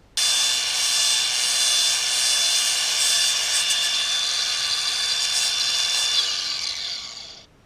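High-speed handheld power tool running for about seven seconds with a steady high-pitched whine, starting suddenly and winding down near the end.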